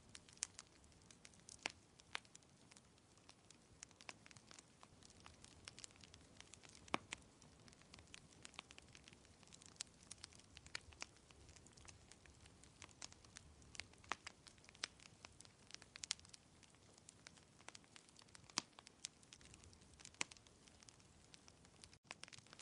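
Wood fire crackling quietly, with irregular sharp pops and snaps a few times a second over a soft low rumble. The sound cuts out for an instant near the end.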